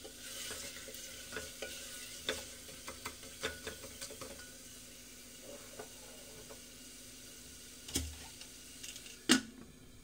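Spinach and masala sizzling in an aluminium pressure cooker while a spatula stirs and scrapes the pot in quick clicks, easing off after a few seconds. Near the end comes a dull thump, then a sharp metal clank, the loudest sound.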